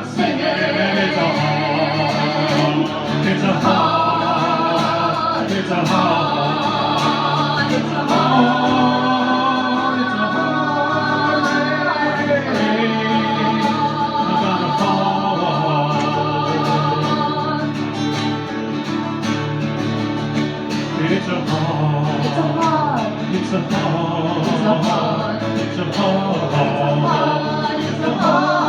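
Live acoustic folk song: voices singing held, drawn-out lines over acoustic guitar.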